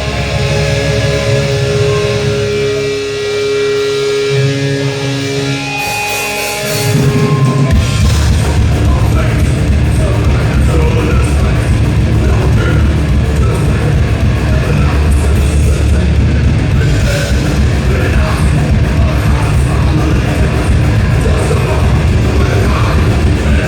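Thrash metal band playing live. Held notes ring over a lighter backing for the first several seconds, then the full band with drums and distorted guitars comes in about seven seconds in and plays on loud and dense.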